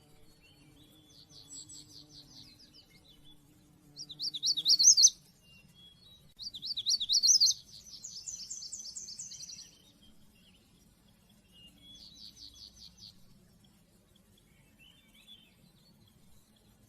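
A songbird singing in separate high phrases: rapid trills alternating with louder quick chirps, with short pauses between phrases.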